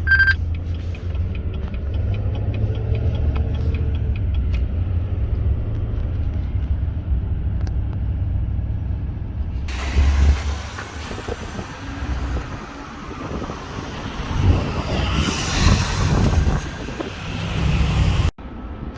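Car on the road: a steady low rumble. About ten seconds in, the sound changes to a brighter hiss with a few knocks.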